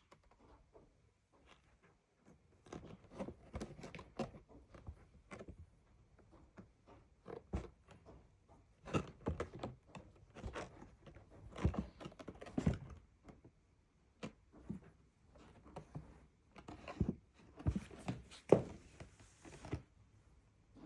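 A kitten playing: irregular soft thumps, taps and scuffling, busier through the second half.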